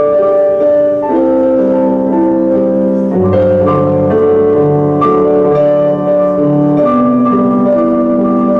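Keyboard in a piano voice playing an instrumental passage: held chords changing every second or so, with a melody above them.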